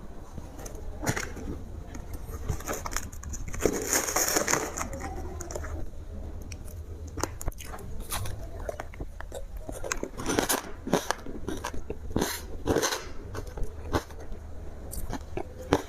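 A person biting into crunchy ice and chewing it, close to the microphone: many sharp, irregular crunches, with a longer stretch of dense crunching about four seconds in.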